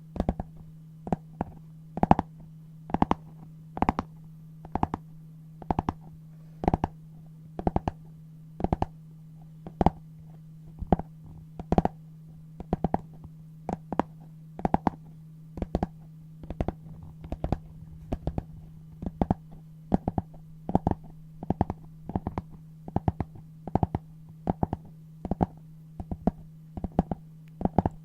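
Scissors cutting brown paper: a crisp snip of the blades about once a second, with softer clicks between, over a steady low hum.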